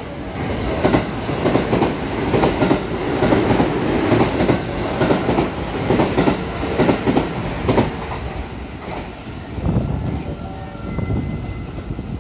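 Silver JR West electric train passing through the station at speed close by, its wheels clattering over the rail joints in repeated paired clicks over a heavy rumble. The sound is loudest for the first eight seconds or so, then fades as the train draws away.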